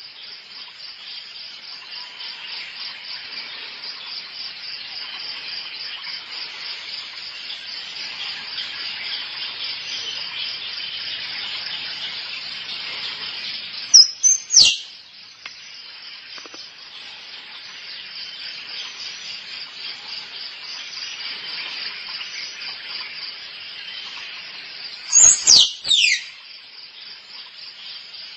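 Squirrel calls: short, loud, sharp cries that sweep down in pitch, once about halfway through and again as a quick cluster near the end. Between them runs a steady, fast pulsing chirring like crickets.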